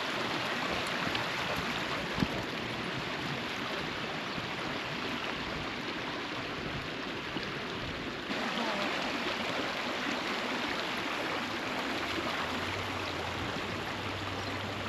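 Steady rushing of flowing water, like a stream or small falls, with a sudden change in its sound about eight seconds in. A low steady hum joins near the end.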